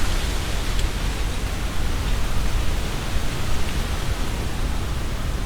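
Strong wind blowing through trees, a steady rush of rustling leaves with a low rumble underneath.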